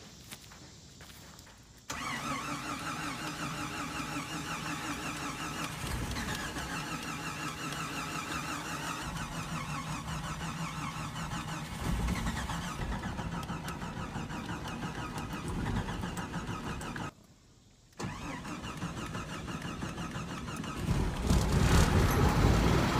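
A car's starter cranks the engine for a long stretch without it catching, stops for about a second, then cranks again: a hard-starting engine. Near the end the sound gets louder and deeper as the engine fires.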